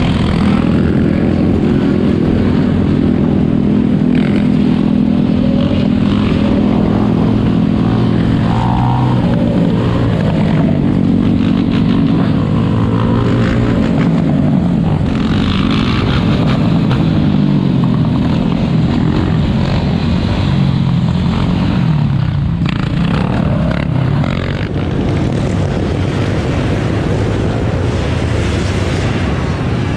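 Four-wheeler (ATV) engines running continuously, their pitch rising and falling as they rev.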